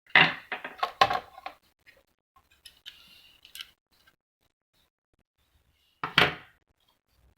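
Hard knocks and clicks of tools and small printer parts being handled and set down while a receipt printer is taken apart. A burst of knocks comes in the first second and a half, faint ticks follow, and one more loud knock comes about six seconds in.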